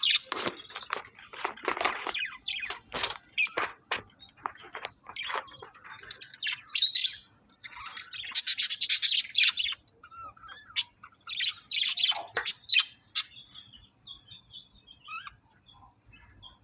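Budgerigars chirping and chattering in quick, irregular bursts of high chirps and warbles, thinning out to a few scattered notes near the end.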